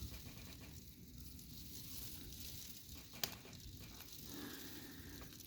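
Windstorm heard from inside a house: a low wind rumble with a steady hiss of wind-driven precipitation against the house, and one sharp tap about three seconds in.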